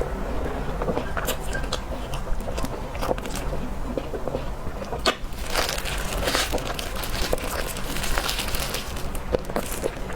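Close-up eating sounds of cake being chewed: many small wet clicks and crackles of the mouth working the food, over a steady low hum.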